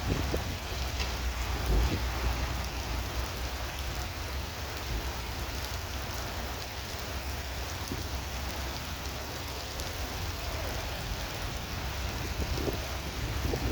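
Heavy rain falling steadily, with a low rumble underneath and a few brief louder swells near the start and again near the end.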